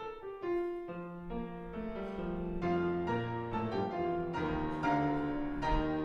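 Piano music: chords played slowly, with new notes struck every second or so.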